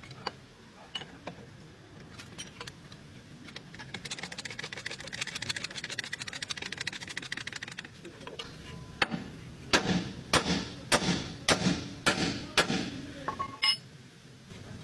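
Hand-tool work on a car's lower arm ball joint: a few seconds of rapid clicking, then about eight hard hammer blows on metal, roughly two a second.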